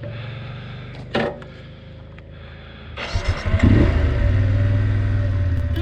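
Motorcycle engine idling, then getting louder and revving up about three seconds in as the bike pulls away, with a short knock about a second in.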